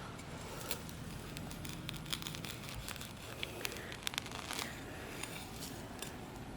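Digging a metal-detecting target out of grassy soil: faint scraping and tearing of dirt and roots being pulled apart, with scattered small clicks.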